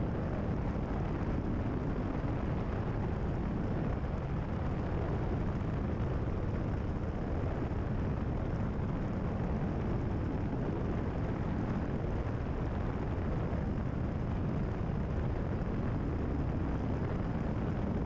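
Cessna 172RG's four-cylinder Lycoming engine and constant-speed propeller running steadily at cruise power, heard as an even drone inside the cockpit.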